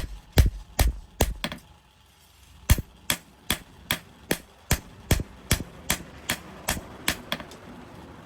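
Hammer blows on steel at the anvil, forging a sword blade: a steady rhythm of about two and a half sharp, ringing strikes a second. The strikes break off for about a second near the start, then resume and stop near the end.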